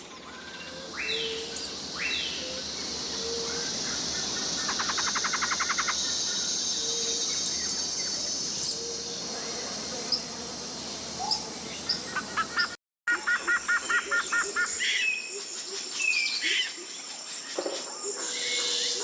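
Tropical rainforest ambience: a steady high buzz of insects under scattered bird calls and chirps, with two sharp down-slurred whistles early on and fast trilled call series. About two-thirds of the way through, the sound cuts out for a moment and resumes as a different forest recording.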